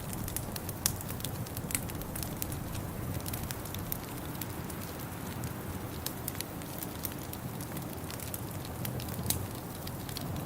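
Wood fire crackling in a fireplace, with irregular sharp pops and snaps over a steady low rumble. The loudest pops come about a second in, just before two seconds, and near the end.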